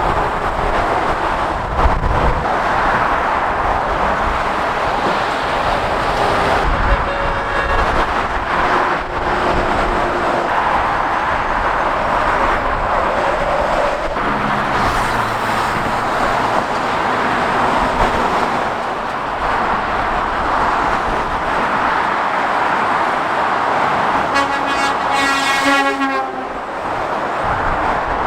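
Heavy motorway traffic, lorries passing with steady tyre and engine noise. A horn sounds for about two seconds near the end, with a fainter, shorter horn-like tone about seven seconds in.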